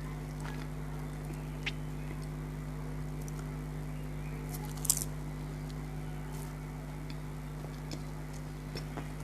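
Close-miked eating: quiet chewing with small scattered crunches and one sharper crunch about five seconds in, over a steady electrical hum.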